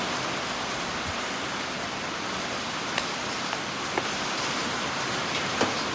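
Steady rain falling, an even hiss, with a few sharp ticks about three, four and five and a half seconds in.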